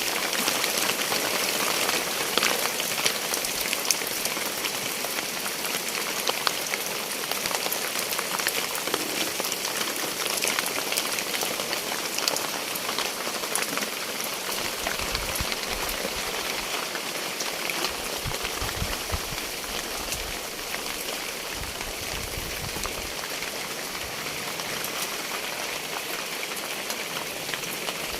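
Heavy rain falling steadily, a dense patter of many small drop taps, with a few low rumbles about midway.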